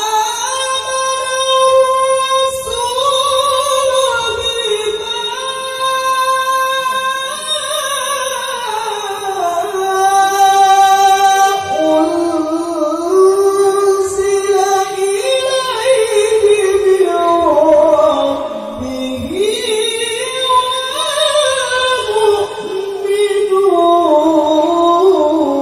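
Melodic Quran recitation by a qari with a very high male voice, holding long, ornamented notes that start high and work gradually down the scale.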